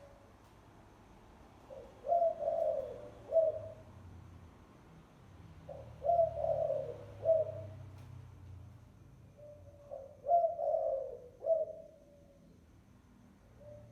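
Spotted dove (chim cu gáy) cooing, a decoy call for luring wild doves. It gives three phrases about four seconds apart, each a short note, a longer swelling coo and a clipped end note.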